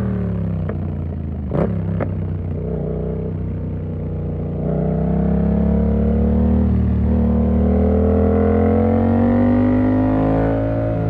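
Yamaha MT-07's parallel-twin engine through an SC Project exhaust with its dB killer fitted. The revs fall off for the first few seconds, with a sharp click about a second and a half in, then climb steadily from about halfway as the bike accelerates, and ease off slightly near the end.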